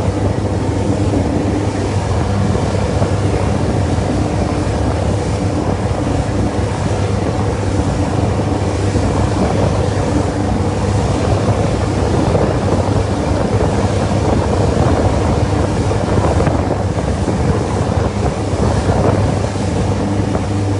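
Boat engine running steadily with a constant low hum, over the rush of water and wind on the microphone.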